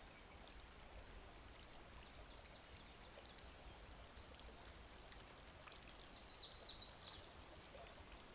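Quiet outdoor ambience, near silence. About six seconds in, a bird gives a short run of high chirps lasting about a second.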